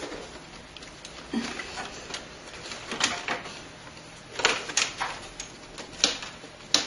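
Hands handling computer hardware: scattered sharp plastic and metal clicks and short rattles as parts are worked loose inside an open PC case, with a small cluster of clicks a little past the middle.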